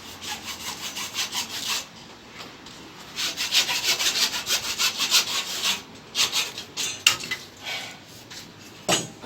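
Hand saw cutting with quick, even back-and-forth strokes. It runs in two stretches with a short pause about two seconds in, then a few slower strokes near the end.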